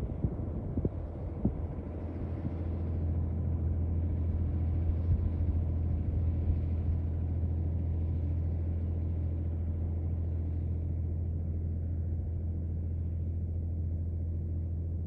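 Ford 555 backhoe loader's engine running steadily with a low, even hum.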